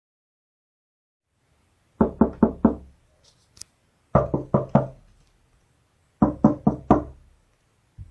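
Knocking: three rounds of four quick knocks, about two seconds apart.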